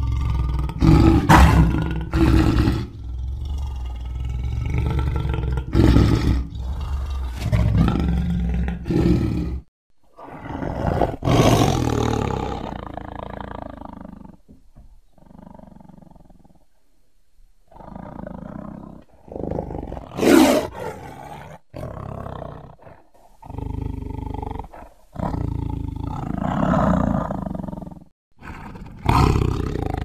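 Sabre-toothed cat (Smilodon) sound effects: a run of big-cat roars and snarls, one after another with short pauses, over a low rumble in the first third and with a quieter lull just past the middle.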